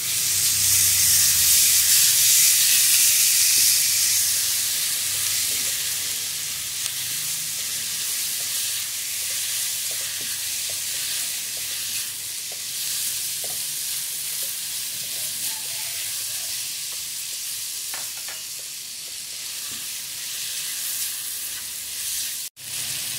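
Chopped onions, tomatoes and ground spices sizzling in hot oil in an aluminium karahi while a spatula stirs and scrapes them around the pan. The sizzle is loudest for the first few seconds of stirring, then settles to a steady hiss.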